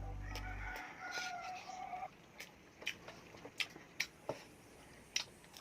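A rooster crowing once, a wavering call of about a second and a half, followed by a scattering of short, sharp clicks and taps from eating.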